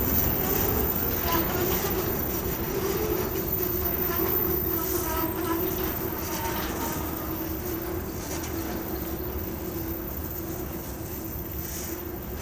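Freight train wagons rolling through a curve, their wheels squealing with a steady high tone over the rumble of the train. The sound fades gradually.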